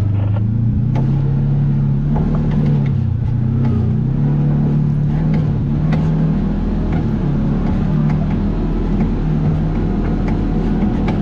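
An off-road vehicle's engine running under way on a trail, its pitch rising and falling as the throttle changes, with scattered knocks and rattles over the bumps.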